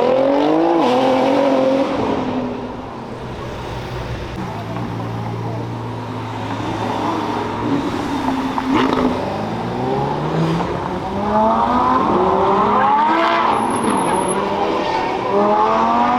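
Car engines accelerating hard, their pitch climbing as they rev up, once near the start and again in several climbs over the last few seconds, with a steadier engine drone between.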